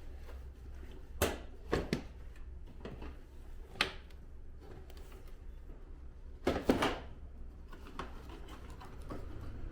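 Parts of an air-conditioner indoor unit being handled and fitted during reassembly: separate sharp knocks and clicks a second or more apart, some in quick pairs, with a steady low hum underneath.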